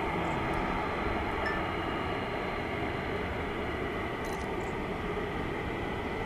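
Jet airliner engines running steadily: a continuous rumble with a high whine.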